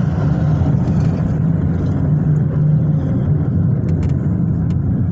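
A car driving along: a steady low drone of engine and road noise.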